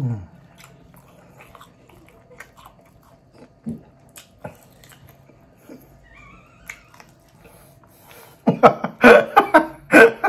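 Close-up mouth sounds of a man eating steak and rice with his hands: soft chewing, lip smacks and small clicks. About eight and a half seconds in, he bursts into loud laughter that lasts a couple of seconds.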